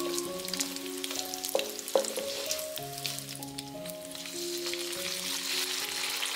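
Slices of cured meat sizzling in oil in a wok as a wooden spatula stirs them, knocking against the pan a couple of times around two seconds in. About four seconds in, water is poured onto the hot fat and the sizzle turns to a louder, denser hiss. Soft background music plays throughout.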